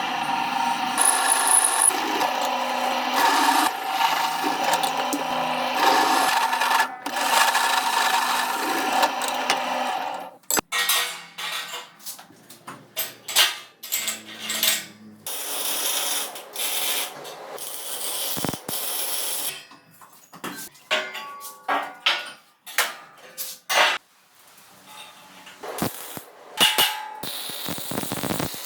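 Background music for about the first ten seconds, then irregular knocks, clanks and scraping of tool work.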